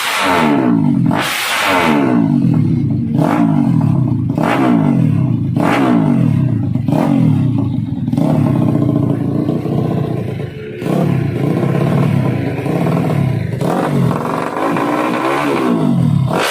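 Racing motorcycle engine revved in repeated throttle blips, its pitch rising and falling about once a second, with a short drop in revs about two-thirds of the way through.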